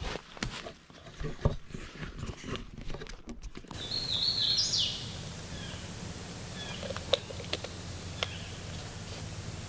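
Footsteps and rustling with sharp clicks for the first few seconds. Then, after an abrupt change in the background, a songbird sings a short run of high, stepped chirping notes, followed by a few scattered chirps and ticks.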